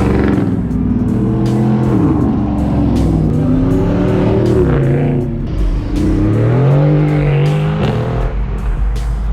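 A car engine revving, its pitch falling and rising several times, under background music with a steady beat.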